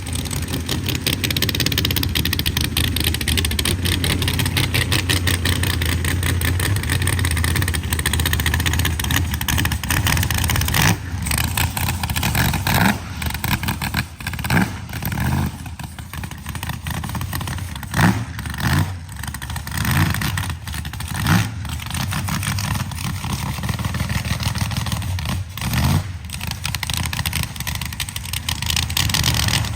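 Turbocharged methanol-fuelled truck engine running at a steady level for about ten seconds, then revved hard in a series of sharp throttle surges with rising pitch.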